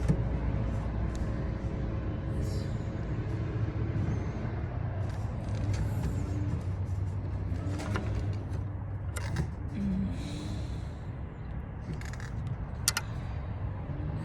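Scattered small clicks and knocks of hands and tools working at a car's fuel pump assembly, over a steady low hum.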